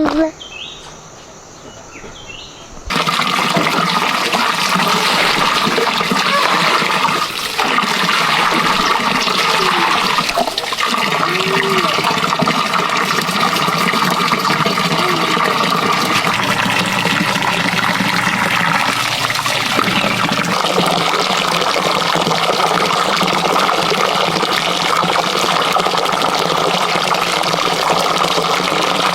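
Loud, steady rush of water that starts abruptly about three seconds in.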